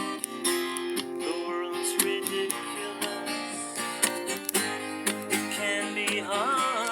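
Acoustic guitar strummed in a steady rhythm during an instrumental break of a quiet singer-songwriter song. Near the end, a higher melody line with bending notes joins in.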